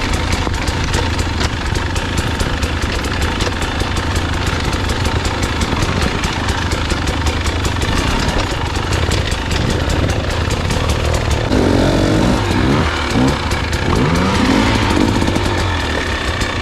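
Enduro dirt bike engine running under load on a trail, its pitch rising and falling several times in the second half as the throttle is worked.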